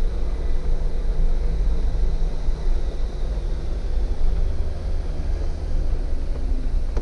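Jeep engine running steadily at low speed, a deep rumble with a noisy hiss over it as the vehicle crawls along.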